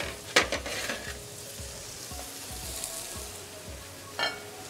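Chicken breast and mushrooms sizzling steadily in a frying pan on the stove. In the first half-second there are a few sharp knocks of small ceramic gratin dishes being set on the counter, and about four seconds in a short ringing clink.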